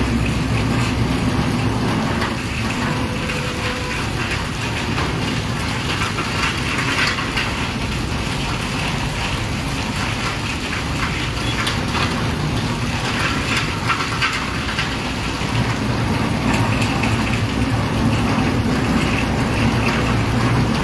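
Steady rain falling, with cars and trucks passing on a wet road.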